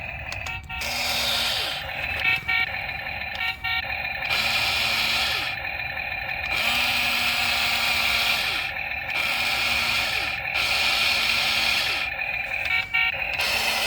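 Toy RC excavator's electric motors whirring in a series of short bursts, starting and stopping every second or two as its controls are worked, with brief clicks between bursts.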